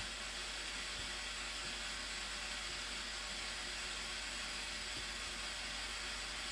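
Steady rushing hiss of the Blue Nile Falls' falling water, even and unbroken throughout.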